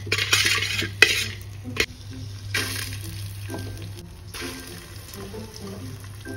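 Whole spices sizzling in hot melted butter in a steel pot, with a metal spoon stirring and clicking against the pot twice in the first two seconds. Raw rice then goes into the pot and the sizzle carries on, quieter.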